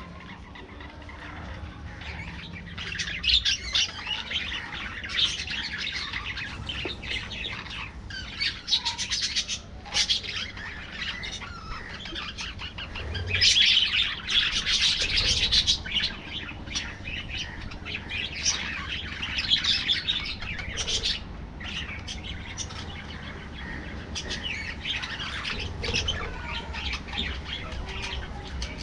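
A flock of budgerigars chattering and chirping without a break, with swells of louder chatter.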